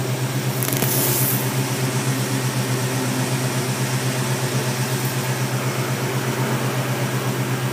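1967 Ford Mustang's V8 engine idling steadily, its low note pulsing evenly. A brief hiss rises over it about a second in.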